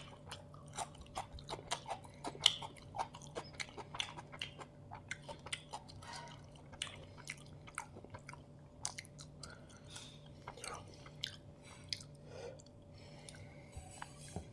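Close-miked chewing and mouth sounds of someone eating a chicken biryani meal: wet smacks and sharp little clicks, frequent at first and thinning out through the second half.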